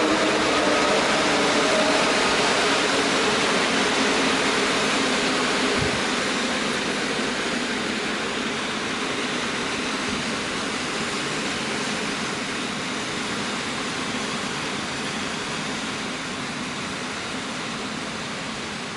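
A train passing, its rumbling wheel-and-rail noise slowly fading as it moves away, with a faint hum from the locomotive dying out in the first few seconds. A single low thump about six seconds in.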